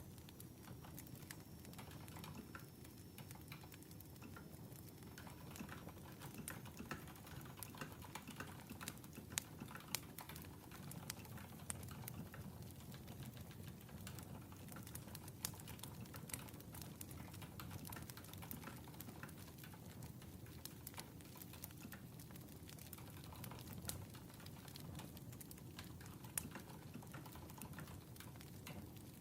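Wood fire burning with a low, steady rumble and irregular sharp crackles and pops.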